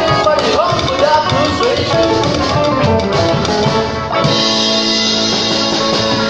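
Rockabilly music with guitar and drum kit, shifting to long held chords about four seconds in.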